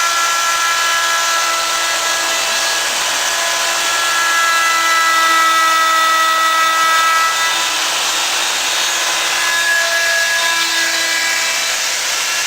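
Homemade CNC router running, its spindle giving a steady high whine over a noisy rush. The pitch shifts a little about two-thirds of the way through.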